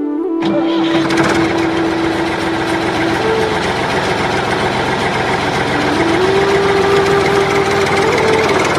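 Small engine of a homemade mini tractor running steadily at idle. It cuts in suddenly about half a second in.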